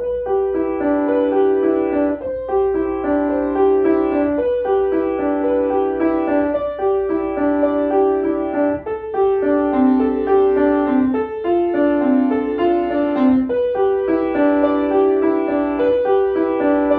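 Solo piano playing a flowing piece in repeating note patterns, mostly in the middle register, beginning at the very start.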